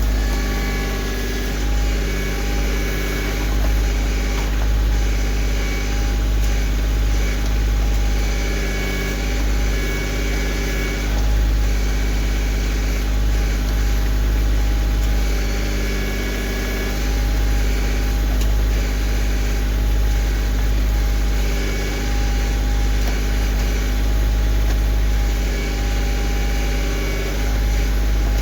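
Kioti CK2610 compact tractor's three-cylinder diesel engine running steadily under the backhoe work, with some higher tones that come and go every few seconds.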